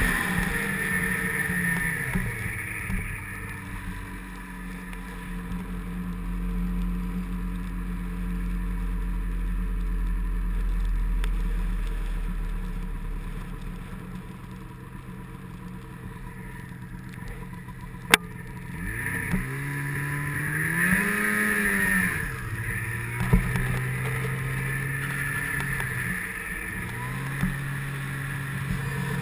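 Snowmobile engine running at steady speed, its note shifting slowly, then revving up and easing back down about two-thirds of the way through. A single sharp click comes just before the rev.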